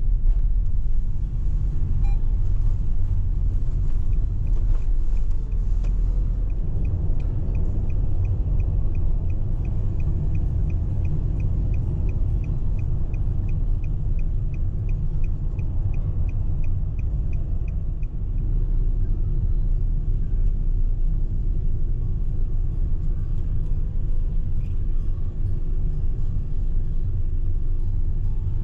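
Nissan Caravan van driving, with a steady low rumble of road and engine noise heard from inside the cabin. From a few seconds in until about two-thirds of the way through, a turn signal ticks steadily about twice a second.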